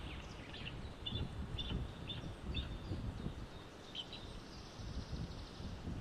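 A bird giving a run of short, high chirps, about two a second, then a pause and a last chirp a little past the middle, over a low rumble of wind on the microphone.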